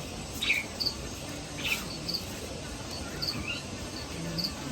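Small animals chirping: short, high chirps repeating roughly once a second, with a few brief falling chirps in between, over a steady background hiss.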